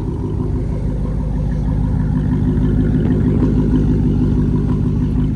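A car engine running at a steady idle: a low rumble that slowly grows louder.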